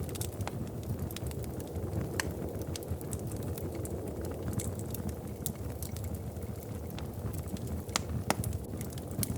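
Wood fire crackling in a fireplace: irregular sharp pops and snaps over a steady low rumble of the burning fire, with a couple of louder pops near the end.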